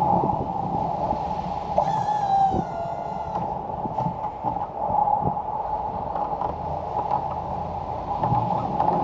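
A machine running steadily, with a brief high squeal from about two seconds in and a few sharp knocks and clanks.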